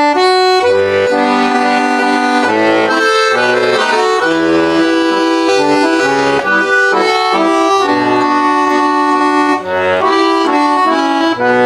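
Accordion playing the instrumental introduction to a Cossack folk song: a melody over sustained chords, with no singing yet.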